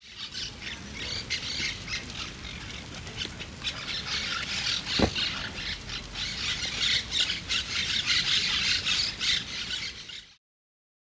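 Outdoor park ambience dense with harsh bird squawks and chirps, many birds calling over one another. A single sharp click comes about halfway through, and the sound cuts off abruptly near the end.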